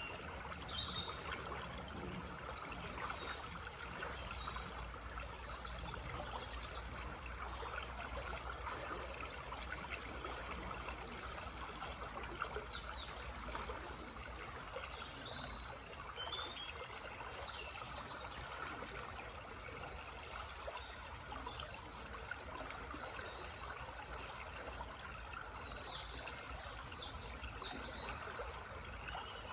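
Small forest stream trickling and babbling steadily over stones, with birds chirping now and then, a burst of calls near the end.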